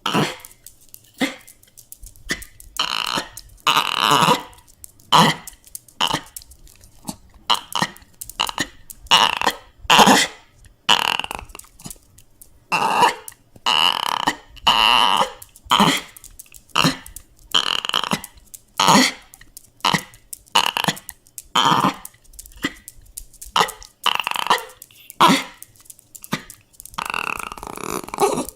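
Dogs whining and crying in a rapid run of short cries, one or two a second, some drawn out a little longer.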